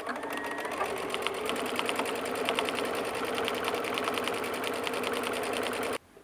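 Sewing machine stitching a quarter-inch seam through layered cotton fabric and batting: its motor hums steadily under a fast, even run of needle strokes, then stops suddenly about six seconds in.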